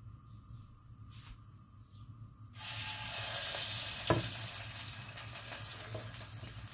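Egg-soaked bread for French toast frying in a hot stainless steel pan: the sizzle starts suddenly about two and a half seconds in and goes on steadily. About a second and a half later a metal fork clicks once against the pan.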